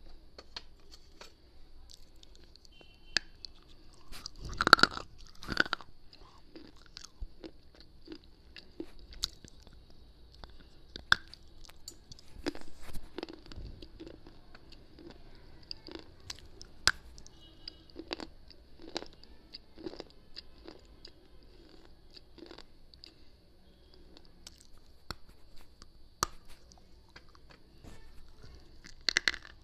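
Close-miked biting and crunching of hard slate and baked-clay pieces, chewed in the mouth. There are irregular sharp crunches throughout, loudest about five seconds in and again near the end.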